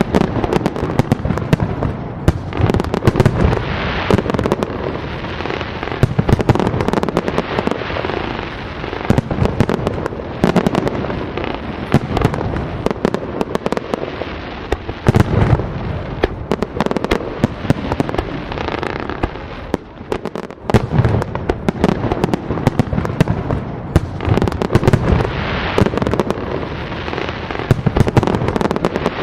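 Fireworks going off continuously: many overlapping bangs and crackles over a steady rumble, with a short lull about twenty seconds in.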